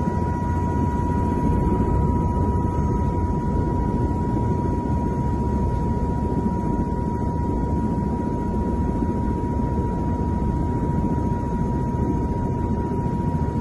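Écureuil (AS350) helicopter running, heard as a steady low drone of rotor and turbine with a constant thin high whine above it.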